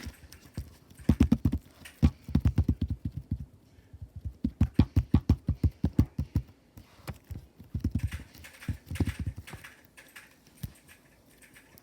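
Hard slime being worked by hand, making rapid low popping thuds in four bursts of about eight a second.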